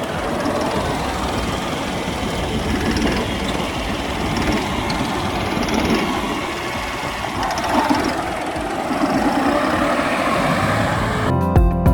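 New Holland 5620 CRDI tractor's diesel engine running steadily. Music comes in just before the end.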